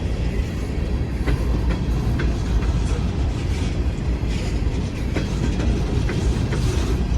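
Empty coal hopper cars of a long freight train rolling past slowly, with a steady low rumble and irregular wheel clacks over the rail joints.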